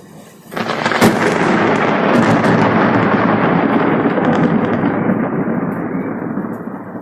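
Nearby thunder: it breaks in suddenly with a sharp crack about a second in, then a long rumble that slowly dies down, its higher tones fading first.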